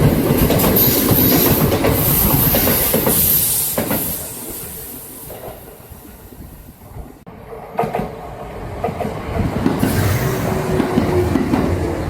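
Kintetsu electric train passing with the clickety-clack of wheels over rail joints. The clatter fades away about halfway through, then builds again as train noise returns near the end.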